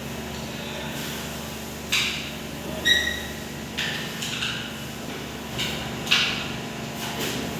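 Metal tools and engine parts clinking and clanking as a petrol engine is taken apart, about seven separate knocks, one about three seconds in ringing briefly. A steady low hum runs underneath.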